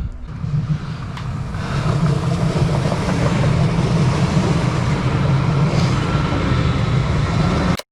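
An S-Bahn train running past on the tracks: a loud, steady rumble that builds over the first couple of seconds, with a faint high wheel squeal near the end, then cuts off sharply.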